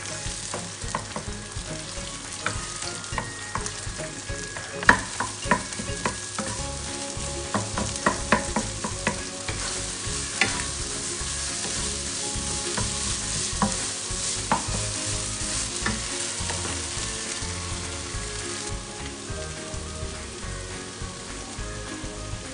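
Eggs and chopped greens sizzling in a hot wok while a wooden spatula stirs and scrapes them. There is a run of sharp knocks about five to ten seconds in.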